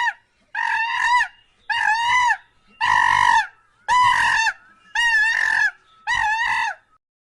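A domestic fowl calling seven times in a steady series, about one call a second, each call pitched and ending with a downward drop.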